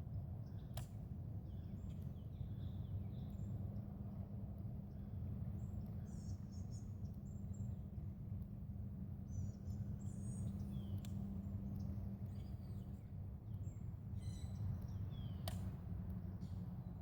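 Birds chirping and calling on and off over a steady low rumble, with two sharp clicks, one about a second in and one near the end.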